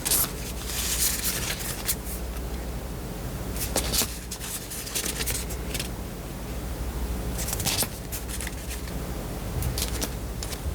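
Paper and plastic crinkling and scraping as sheets of cut stickers and their packaging are handled, in several short bursts about a second in, near four seconds, around seven and a half and near ten seconds, over a low steady hum.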